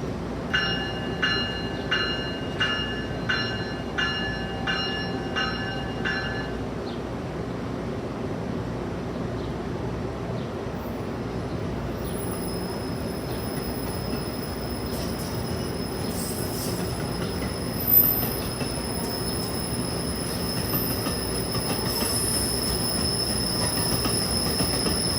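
A train running through with a steady rumble. A bell rings about nine times, evenly spaced, over the first six seconds, and a high steady squeal or whine sets in about halfway through, with a short sharp clank a little later.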